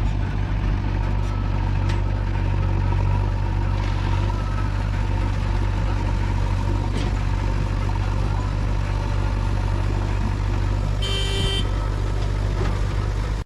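Diesel engine of a JCB 3DX backhoe loader running steadily at work, with a few faint clanks. A short horn toot sounds near the end.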